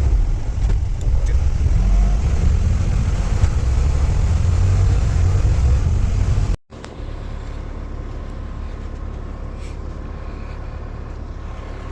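A car driving, with a steady low road and engine rumble. It is loud for about six and a half seconds, then cuts out briefly and resumes as a quieter, steadier rumble.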